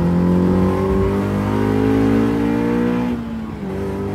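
Honda S2000 four-cylinder engine heard from inside the cabin of a swapped AE86 Corolla under acceleration. The revs climb steadily, drop sharply at an upshift about three seconds in, then start climbing again.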